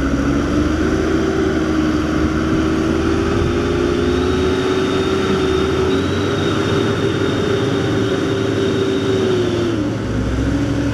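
Truck engine held at high revs under load, its pitch creeping up and holding steady, then dropping near the end, with a faint high whine over it for part of the time; the sound of a stuck truck straining to pull itself free.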